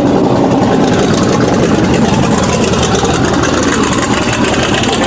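A car engine idling with a steady, loud rumble.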